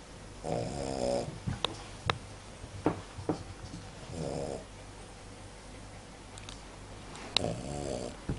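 Cavalier King Charles Spaniel snoring in its sleep: three buzzing snores about three and a half seconds apart, with a few short sharp clicks between them.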